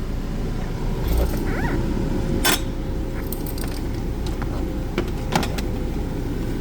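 Car engine idling with the air-conditioning blower running on medium fan: a steady hum with a faint steady tone, broken by a few sharp clicks and knocks of handling inside the car.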